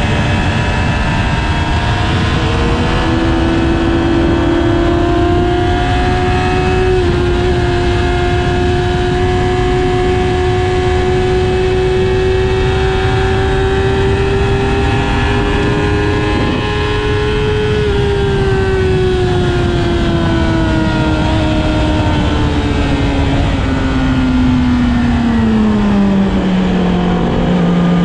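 Yamaha R6 sport bike's inline-four engine heard onboard while riding, with wind rush underneath. The engine note holds fairly steady and creeps slowly higher, with a small jump about a quarter of the way in, then winds down steadily as the bike slows near the end.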